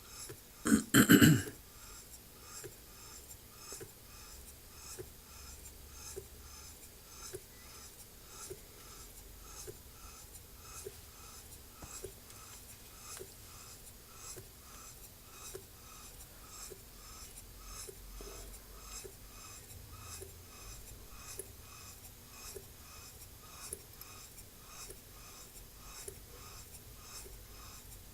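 Small model steam engine running smoothly, its exhaust puffing in an even rhythm of roughly two to three beats a second, with one brief loud noise about a second in.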